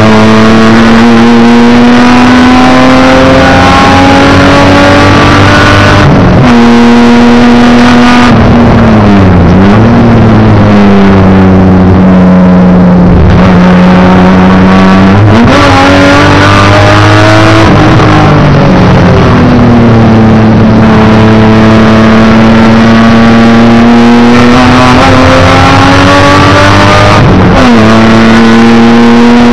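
Race car engine heard loud from inside the cockpit under hard acceleration, its pitch climbing steadily and dropping sharply three times at upshifts, with shorter dips where it is braked and downshifted for corners.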